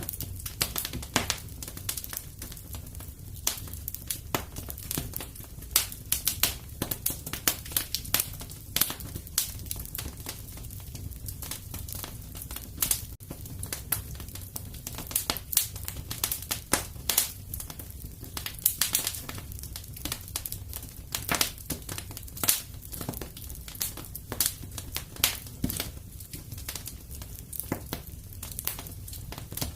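Wood fire crackling in a fireplace: irregular sharp pops and snaps, several a second, over a steady low roar of the flames.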